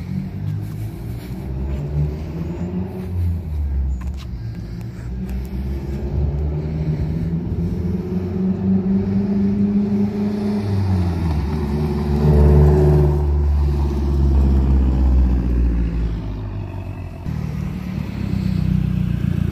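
Mazdaspeed3's turbocharged 2.3-litre four-cylinder accelerating hard through the gears in a drive-by run. The exhaust note climbs in pitch, drops at a gear shift about ten seconds in, climbs again and is loudest a little past the middle.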